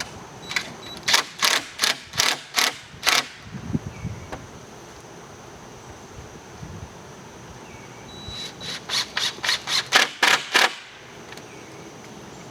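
Two runs of sharp hammer strikes, about three a second: one early on and one around the tenth second, with a quiet pause between.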